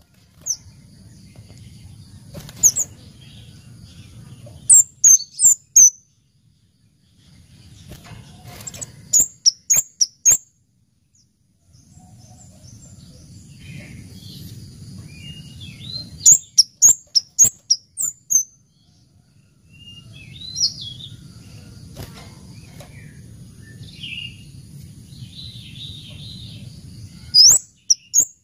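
Scarlet-headed flowerpecker calling: quick runs of four to six high, sharp chips, repeated every few seconds. A low rumble comes and goes underneath, and a thin, steady high tone runs beneath the calls for stretches.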